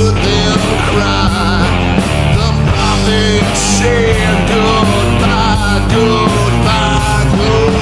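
Stoner rock band playing: distorted electric guitar over bass and drums, with a wavering lead line above.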